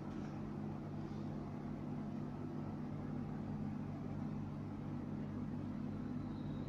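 Steady low machine hum, with a faint high-pitched whine coming in near the end.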